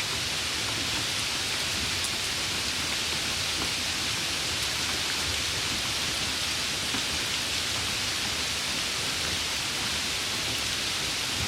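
Steady summer rain: an even, unbroken hiss, strongest in the upper range, with a few faint drop ticks.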